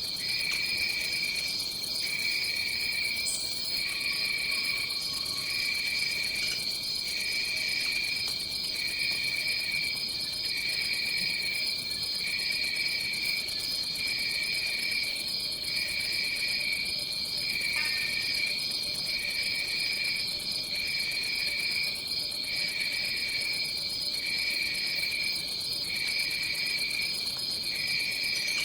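Tropical forest insects, crickets or similar, trilling in chorus: a steady high-pitched trill with a lower trill that pulses on and off about once a second.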